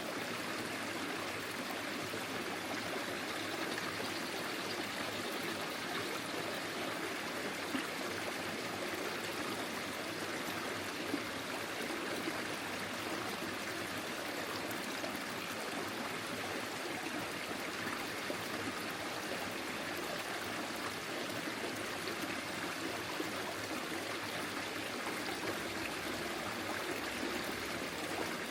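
Forest stream flowing steadily, water rushing and trickling over stones, with a few small splashes.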